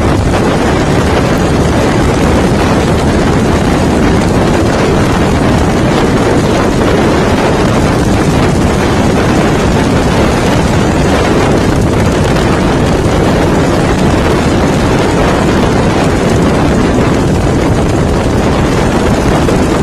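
Bobber motorcycle running steadily while being ridden, its engine buried in heavy wind noise on the microphone.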